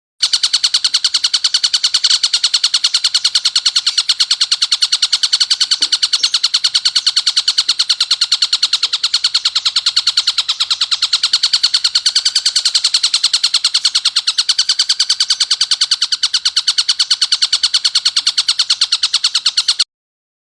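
Tengkek buto kingfisher giving a rough, sharp, tightly packed chattering call: harsh notes repeated about ten times a second without a break. It starts abruptly just after the opening and cuts off suddenly near the end.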